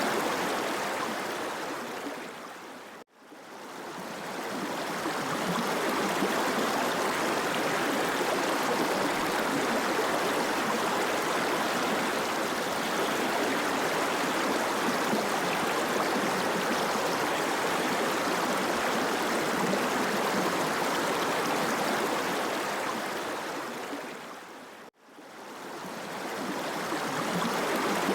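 Steady rushing of a mountain stream's water. It fades out and back in twice: about three seconds in and again near the end.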